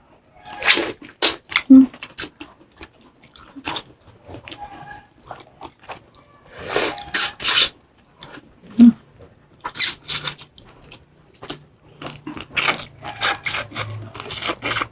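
Close-up crunchy eating sounds: biting and chewing through salted shrimp, shells and all. The crunches are irregular and come in clusters about a second in, around seven seconds, and through the last few seconds.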